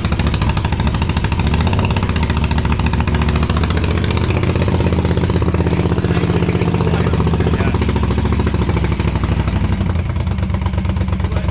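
Custom motorcycle with aftermarket exhaust pipes running loudly at idle, a little too noisy by its owner's own account. The revs rise slightly about four seconds in and drop back near the end.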